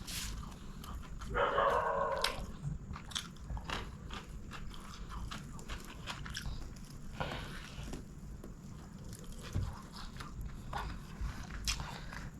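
Close-miked chewing and mouth sounds of someone eating chicken biryani: many small wet clicks and smacks, with a louder burst about a second and a half in.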